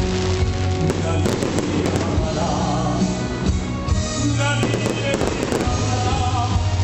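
Fireworks bursting and crackling, a dense run of sharp pops and crackle, over music.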